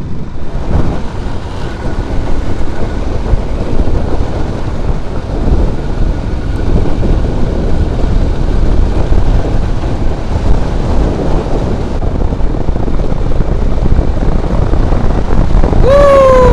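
Royal Enfield Himalayan motorcycle riding at speed: the engine drone mixed with wind buffeting the microphone, a steady loud rumble. Near the end a short tone falls in pitch.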